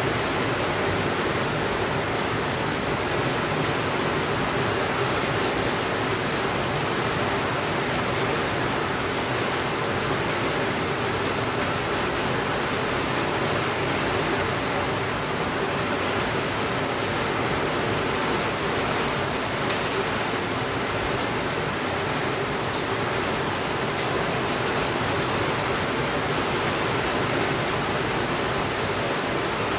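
Steady, even rainfall, a dense hiss with no let-up. About two-thirds of the way through come a few faint crackles from a fireplace, one of them a sharper pop.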